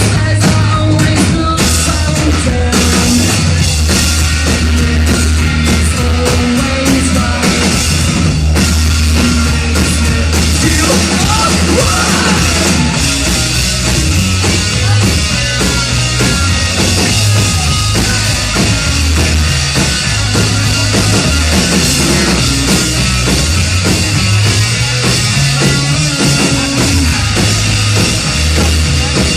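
Rock band playing live at full volume, with a driving drum kit and a heavy low end.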